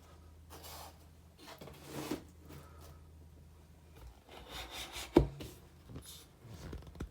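Collectible figure statues being handled and stood up on a surface: soft rubbing and scraping, a sharp knock as one is set down about five seconds in, and a lighter click near the end.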